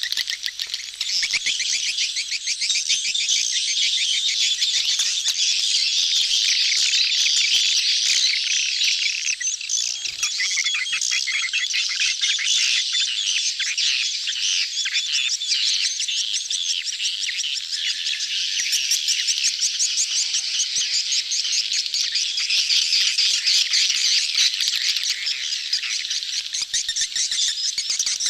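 A dense crowd of edible-nest swiftlets twittering and chittering in a continuous mass of rapid, high-pitched chirps and trills. These are colony and mating calls, used as a lure sound to draw swiftlets into a nesting house.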